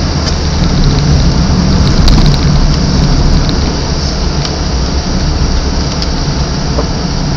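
Inside a moving car in heavy rain: a steady hiss of rain on the car's body and wet road noise over a low engine and tyre rumble.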